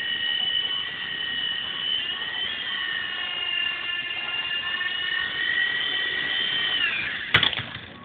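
Small electric RC helicopter's rotor motors whining steadily in flight. About seven seconds in the whine falls in pitch, and a sharp knock follows as the helicopter comes down.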